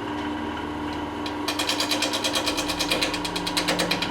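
Wood lathe running at low speed with a skew chisel cutting the edge of a spinning marine-plywood disc that is not yet round. The chisel touches only the high spots, so from about a second and a half in the cut comes as a rapid, even ticking, about eight times a second, over the steady hum of the lathe motor.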